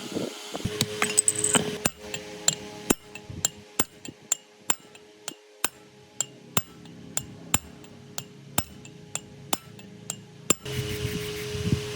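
Hammer tapping on metal: a quick cluster of blows, then an even series of sharp single taps, about two a second, that stops near the end.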